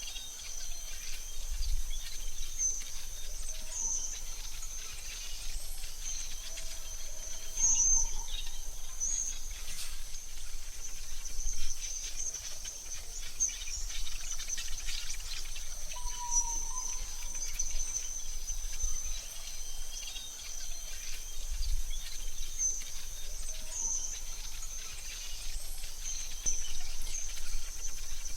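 AI-generated forest soundscape: a steady high insect drone, with bird chirps here and there and a low rumble underneath. A short bird call stands out about halfway through.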